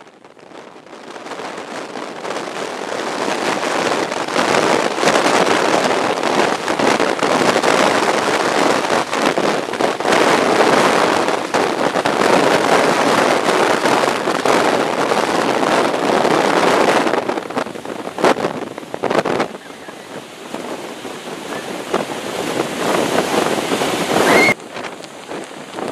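Heavy storm wind buffeting the microphone: a loud, rushing noise that builds over the first few seconds, eases about two-thirds of the way through, then picks up again.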